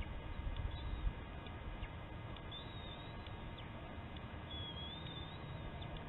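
Faint, high, thin wavering bird calls, twice, over a low rumble of wind on the microphone in the first second.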